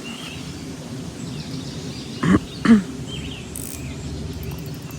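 Two short, loud animal calls about half a second apart, over a steady outdoor background with faint bird chirping.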